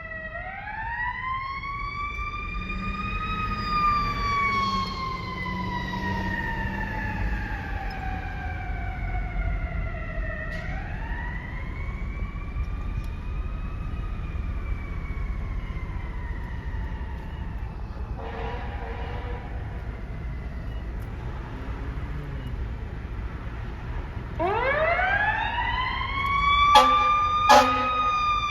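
Fire apparatus siren wailing in long sweeps, each climbing quickly and then falling slowly, over the low rumble of the trucks. Two short horn blasts sound near the end as the siren winds up again.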